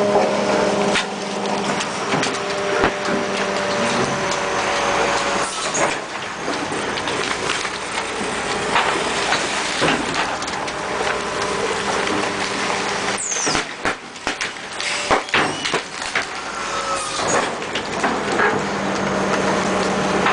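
Garbage truck with a Labrie side-loader body running, with steady mechanical noise, rattling, and a cluster of sharp knocks and clanks about two-thirds of the way through.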